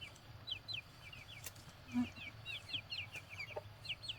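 A flock of young chickens cheeping: many short, high, falling peeps, several a second.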